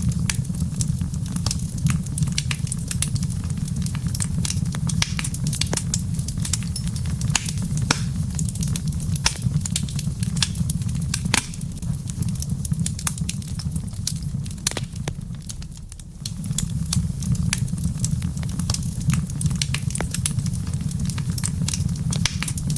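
Wood fire burning in a fireplace: frequent sharp, irregular crackles and pops over a steady low rumble. The rumble dips briefly about fifteen seconds in, then returns.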